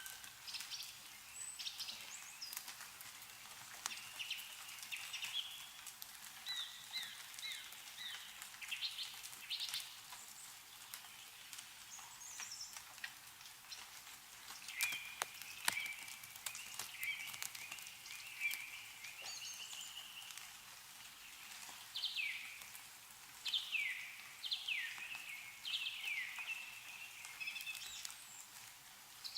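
Meltwater dripping from snow-laden trees in irregular sharp drops, with small songbirds chirping and singing throughout; a run of quick falling chirps comes near the end.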